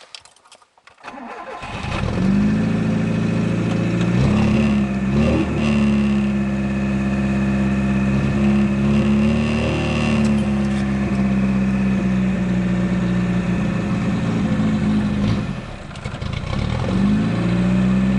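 A VAZ 2107's four-cylinder engine catching about a second in after a hard start and running unevenly, its pitch rising briefly twice. Near the end it sags as if about to stall, then picks back up: a weak, reluctant cold start after the car sat for days with a run-down battery.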